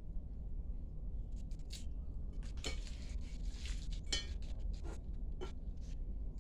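Scattered light clinks and knocks of dishes and utensils being handled while food is prepared, with a denser clatter through the middle, over a steady low rumble.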